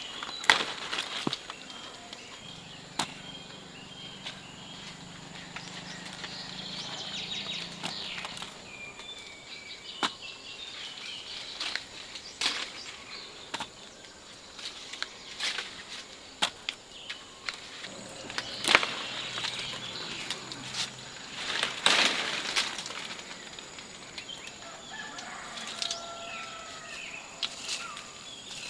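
Scattered sharp knocks, clicks and rustling from handling things outdoors, with short bird chirps here and there and a brief bird call near the end.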